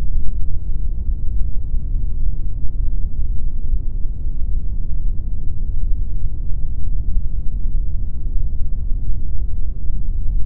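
Steady pink noise: a deep, even hiss with most of its weight in the low end, thinning out toward the highs, unchanging throughout.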